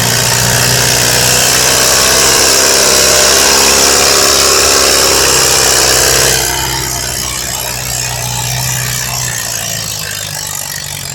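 Pulling tractor's engine running flat out under load with a steady note and a loud hiss over it, then backing off suddenly about six seconds in and running on more quietly.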